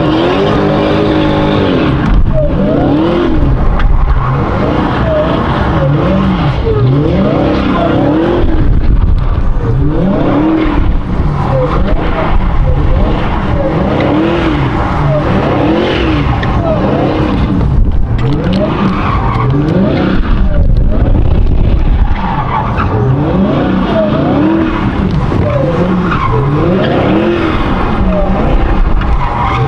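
A car engine revving up and dropping back over and over, about once every two seconds, with tires skidding, as in donuts or a burnout.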